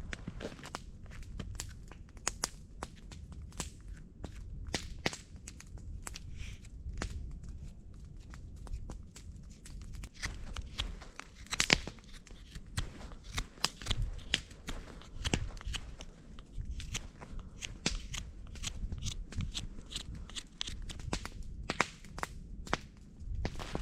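Campfire crackling, with many irregular sharp pops and snaps from the burning wood.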